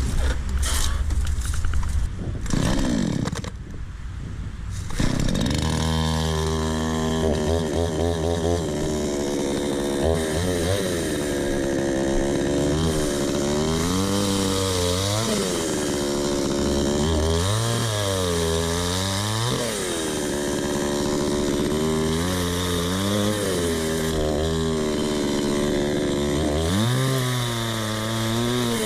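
Chainsaw cutting a fallen gum (eucalyptus) trunk into firewood rounds. The saw comes in about five seconds in after a few knocks. Its pitch drops repeatedly as the chain bites into the wood, then climbs back as it frees.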